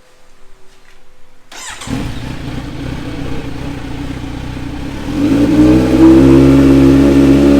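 Kawasaki superbike engine with a newly fitted aftermarket exhaust starting up about a second and a half in and idling, then revved up and held at higher revs about five seconds in, with a deep, loud exhaust note.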